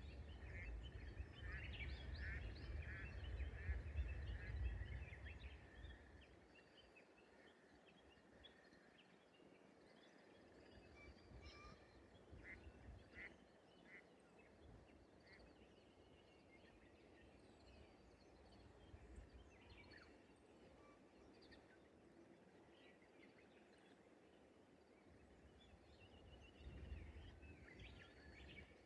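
Faint birdsong: scattered short calls from wild birds, with a quick run of repeated notes in the first few seconds. A low rumble comes and goes, loudest at the start and briefly again near the end.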